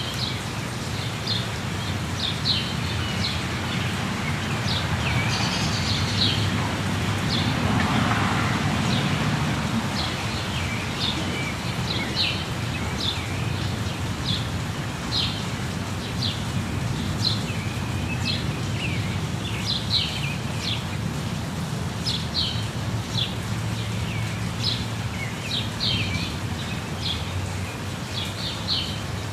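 Steady rush of a waterfall with birds calling over it in a run of short, high chirps, roughly one a second.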